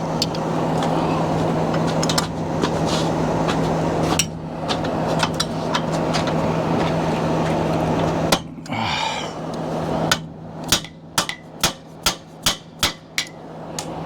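Metal-on-metal hammering: channel-lock pliers beating on the pivot pin of an RV awning arm's wheel, a quick run of about nine sharp strikes near the end, after scattered lighter clicks of tool work over a steady background hum.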